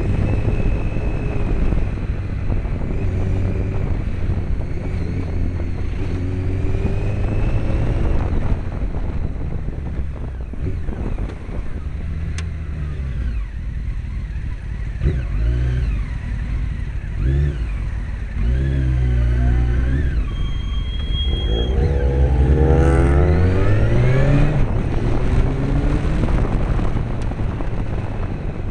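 1998 Honda CBR900RR Fireblade's inline-four engine running, its revs climbing and dropping back several times. It is quieter through the middle, then climbs again in a few rising sweeps near the end.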